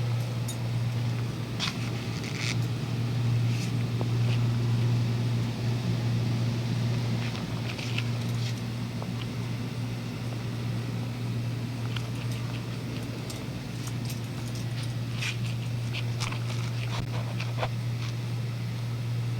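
Steady low hum of the heating and air-conditioning equipment running, with scattered light clicks and taps over it.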